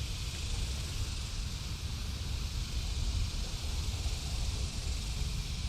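Steady outdoor background noise: a low, unsteady rumble with an even high hiss over it, with no single event standing out.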